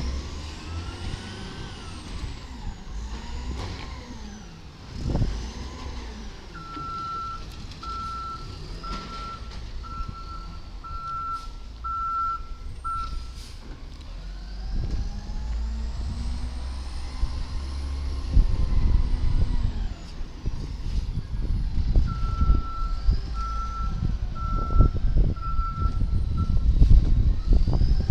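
Garbage truck's diesel engine running and revving up and down, louder in the second half, while its reversing alarm beeps about once a second in two runs: one a few seconds in and another near the end.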